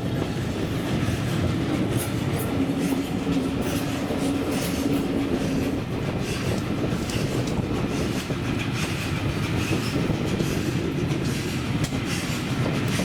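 Train running along the track: a steady rumble with wheels clicking over rail joints, and a steady hum for a few seconds from about two seconds in.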